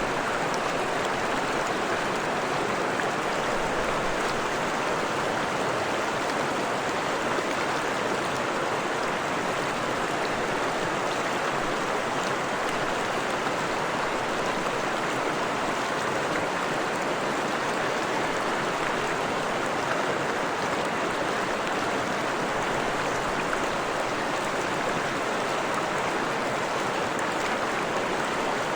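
Freshwater forest stream flowing over rocks: a steady, even rush and babble of running water.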